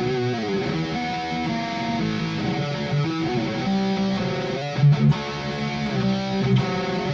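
Harley Benton SC-500 Les Paul-style electric guitar played through the Overloud TH3 amp simulator: sustained notes and chords with a string bend gliding in pitch right at the start, and a few sharper picked attacks about five seconds in.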